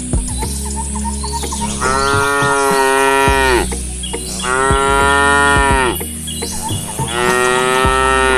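A cow mooing three times, each moo a long, level-pitched call lasting a second and a half to two seconds.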